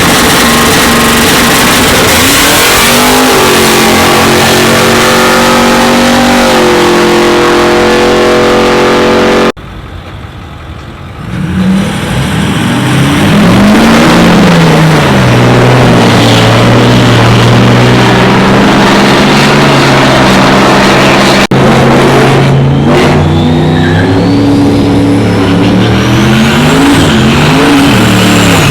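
Loud vehicle engines running and revving in three cut-together clips, the pitch rising and falling with the throttle. In the middle clip the engine climbs after a quiet start, then holds a steady high note for several seconds.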